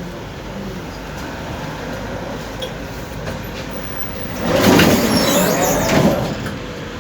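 Tram running, heard from inside the car: a steady rumble, then about four and a half seconds in a louder screech with a wavering pitch lasting under two seconds, typical of wheels squealing on the rails.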